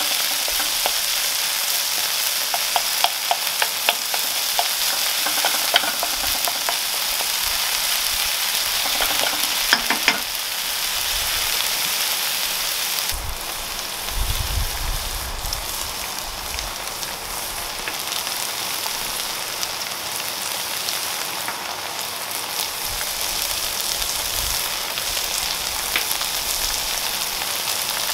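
Minced beef, tomatoes and vegetables sizzling in a frying pan, with a steady hiss. A wooden spoon clicks and scrapes against the pan as the mixture is stirred during the first ten seconds.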